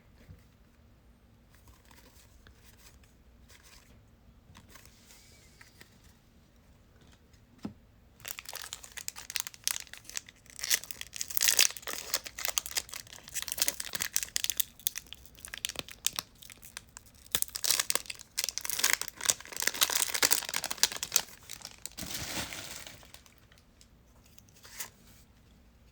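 A trading-card pack wrapper being torn open and crumpled: a long run of crackling, crinkling tears that starts about a third of the way in and dies away shortly before the end, after a stretch of faint handling sounds.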